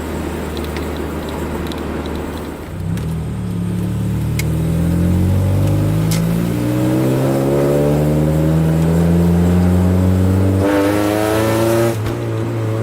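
Honda F22B1 2.2-litre SOHC VTEC inline-four engine droning at a steady low pitch, then revving steadily higher for about eight seconds under acceleration. Near the end the pitch drops suddenly at a gear change and the engine pulls on. It runs through an exhaust that has a leak.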